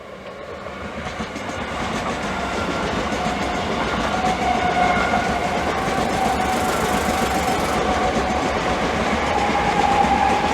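Class 387 Electrostar electric multiple units moving off past the platform, a rolling rumble of wheels on rail that grows louder over the first couple of seconds, with a steady electric whine over it.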